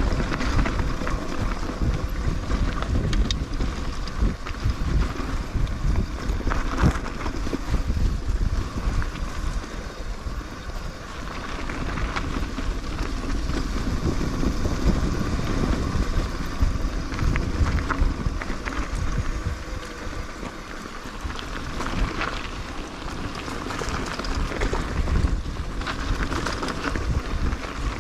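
Mountain bike descending a dirt trail: tyres rolling over ground and stones, with frequent rattles and knocks from the bike, under steady wind noise on the microphone.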